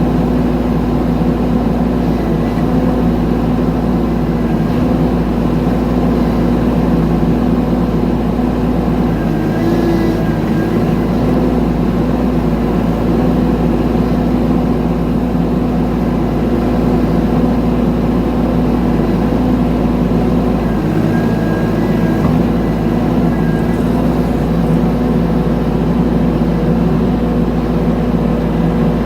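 Mini excavator's engine running steadily under work, with brief higher whines about a third of the way in and again about two-thirds in.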